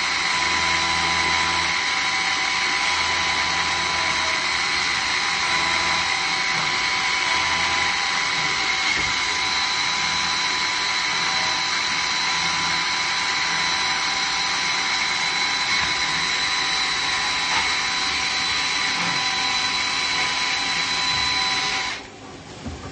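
A 2001 Traub TNL 26 CNC Swiss-type lathe running: a steady high-pitched whine over a loud hiss, which cuts off suddenly near the end.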